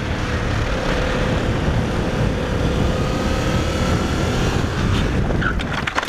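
Wind rushing over a motorcycle rider's camera microphone at riding speed, a steady loud roar with the bike's engine note faintly underneath.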